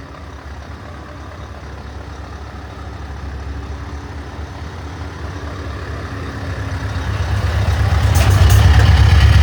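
Scania 660 truck's 16-litre V8 running through an aftermarket exhaust diffuser at manoeuvring speed, a deep low rumble that grows much louder over the last few seconds.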